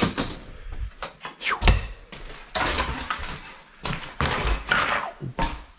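Knocks, thuds and scrapes of demolition debris, nail-studded wooden boards and lath, being picked up, dragged and tossed onto a pile, in a quick irregular string.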